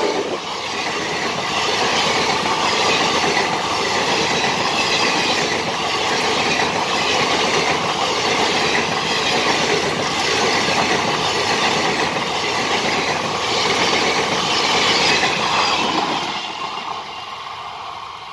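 Express train's passenger coaches passing close by at speed: a loud, steady rush of wheels on rail with a regular clickety-clack over the rail joints. Near the end the last coach goes by and the sound fades as the train draws away.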